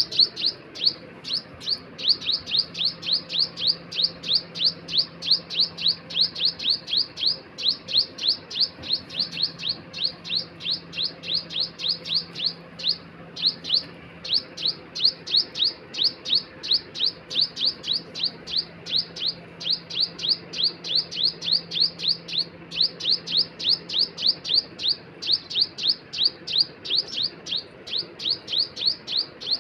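A bird chirping over and over: short, high, falling chirps about three a second, with a couple of brief pauses.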